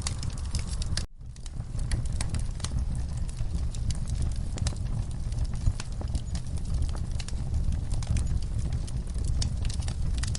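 Log fire burning in a fireplace: a steady low rumble of flames with frequent sharp crackles and pops from the wood. The sound cuts out for a split second about a second in, then comes back.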